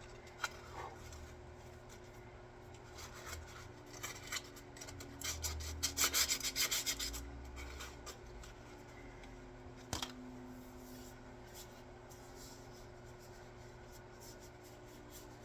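Hand-tool scraping on a wooden axe handle: faint scattered strokes, a quick run of about eight strokes around the middle, then one sharp click.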